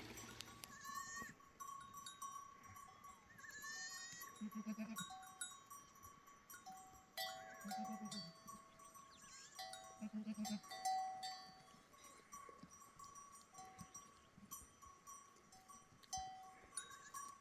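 Animal bells on a grazing flock clinking faintly, with three short quavering bleats a few seconds apart.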